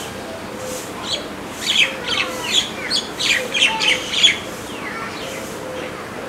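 Small birds chirping in the trees: a quick run of short, sharp, high calls in the middle, quieter before and after.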